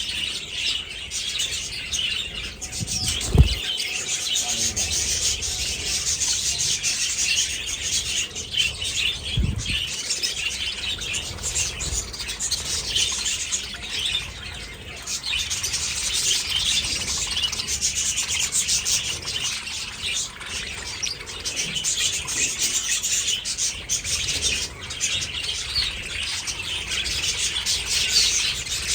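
A flock of budgerigars chattering and chirping continuously in a dense, overlapping mass. There are two brief low thumps, one about three seconds in and another near the tenth second.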